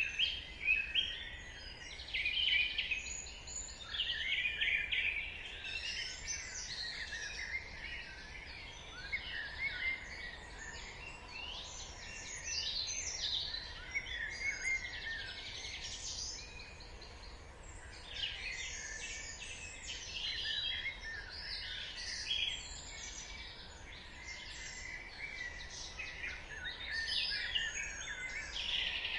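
Dawn chorus: many small songbirds singing and chirping at once, their high, quick calls overlapping without a break, over a faint steady background hiss.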